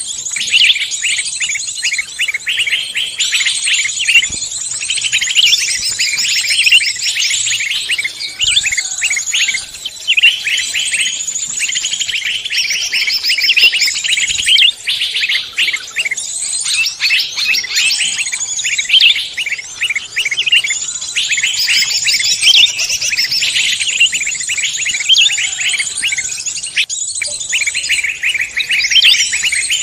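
A mixed chorus of forest songbirds, many birds singing and chirping at once in dense, overlapping rapid trills and high chirps without a pause.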